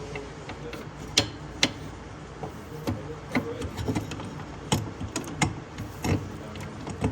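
Irregular metallic clicks and clinks of hand tools and bolt-on parts being handled while fitting plates, spacers and brackets on a car.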